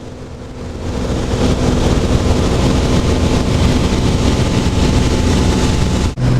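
Cessna 182 light aircraft's piston engine and propeller droning steadily in cruise, heard inside the cabin with a rush of air. It grows louder about a second in and drops out for an instant near the end.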